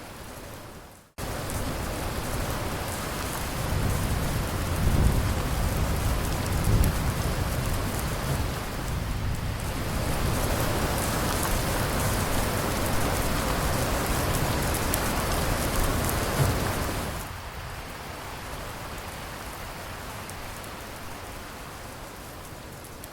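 Steady rain falling. About a second in, the sound dips almost to nothing before heavier rain cuts back in. Low rolling thunder rumbles under it from about four to seven seconds in, and the rain eases back to a lighter fall for the last several seconds.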